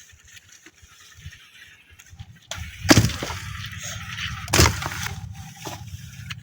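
A Kubota tractor's engine sets in with a steady low rumble about halfway in, with two loud bangs or thumps over it.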